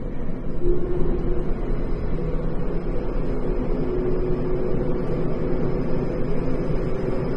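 Tokyo Metro 10000 series electric train cruising between stations, heard from inside the car: a steady running rumble with a few faint steady tones, and a faint high tone that comes in about two seconds in.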